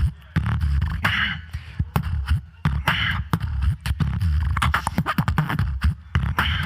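Solo beatboxer performing into a microphone through a PA: rhythmic mouth-made kick drums, snares and hi-hat clicks over heavy bass, with a recurring hissy snare-like sound roughly every two seconds.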